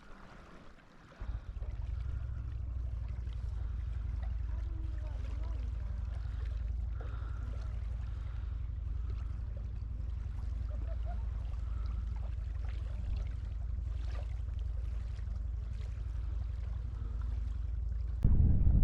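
Steady low rumble of wind buffeting the microphone, starting suddenly about a second in and getting louder near the end.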